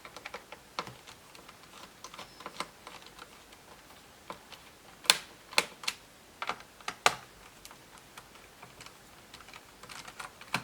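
Scattered clicks and taps of hands handling a laptop's plastic case and panels, with a cluster of sharper clicks about five to seven seconds in.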